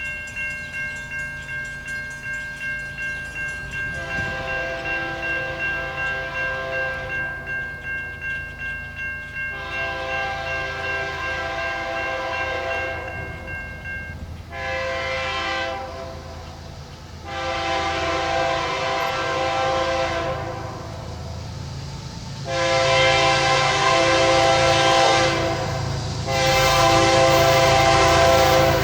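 Diesel locomotive's multi-chime horn sounding the grade-crossing signal, two long blasts, a short one and a long one, then two more long blasts as the train comes closer. For about the first half, a crossing bell rings with about two strokes a second, and a diesel engine rumble builds underneath.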